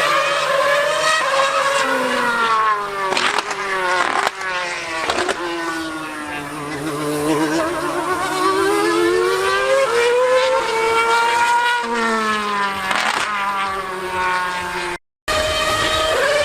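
Formula One car's engine screaming at high revs, its pitch climbing and falling again and again as it accelerates, shifts and brakes, with a few sharp cracks. The sound cuts out for a moment near the end, then resumes.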